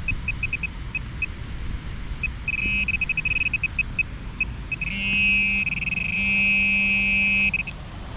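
XP Deus metal detector giving target tones: a run of short high beeps, then a longer, louder tone with a low buzz under it from about five seconds in until shortly before the end. The target it is signalling is iron scrap, not a keeper.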